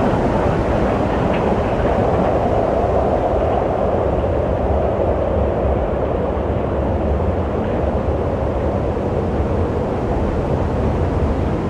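Steady wind rushing with a low rumble, continuous and even, with no gusts or breaks.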